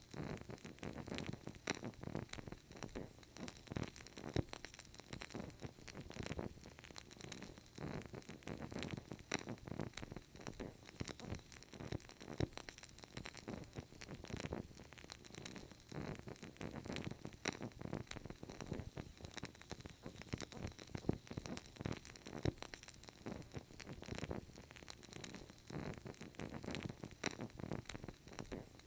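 Burning candle crackling: a continuous stream of small, irregular pops and clicks.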